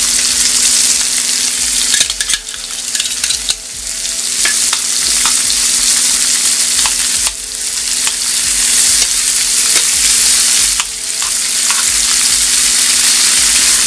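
Shrimp and freshly added minced garlic sizzling in a frying pan while metal tongs stir and turn them, clicking against the pan now and then. The sizzle briefly quietens a few times.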